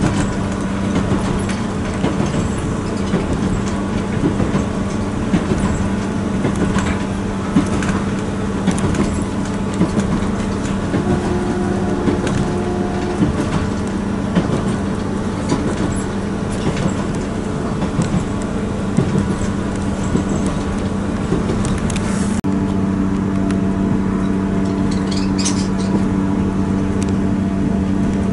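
Diesel passenger train running, heard from inside the carriage: a steady engine drone with frequent rattles and clicks. About three quarters of the way through the sound changes abruptly and a second, higher engine tone joins the drone.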